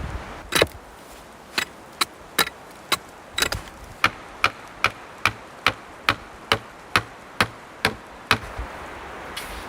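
A steady run of sharp knocks, about two or three a second, like a blade or hammer striking wood. They go for about seven seconds over a low hiss of wind, then stop.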